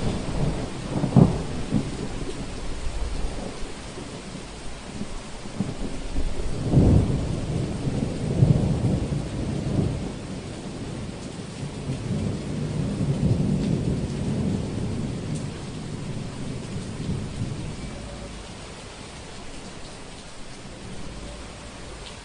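Steady rain in a thunderstorm, with thunder claps near the start and again about seven seconds in, followed by a long rolling rumble of thunder that fades away over the last few seconds.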